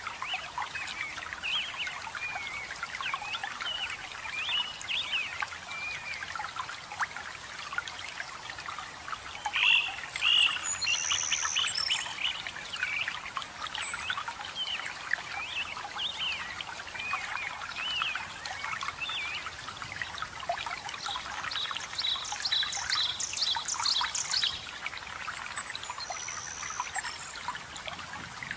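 Steady splashing and trickling of a forest waterfall, with several songbirds chirping and singing throughout. About three-quarters of the way through, one bird gives a fast run of repeated high notes.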